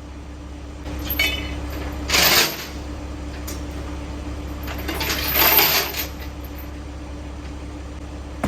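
Metal clinking and rattling of steel chains and rigging during a crane lift of an air compressor, in two loud bouts about 2 seconds in and again around 5 to 6 seconds, over a steady low hum of running machinery.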